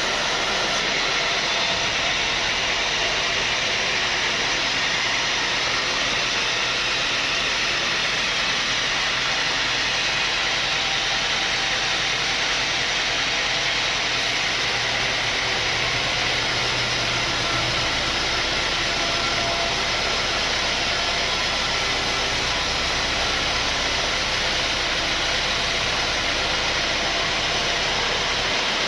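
Sawmill saw running steadily, an even hiss with faint steady tones above it; a low hum underneath grows stronger about halfway through.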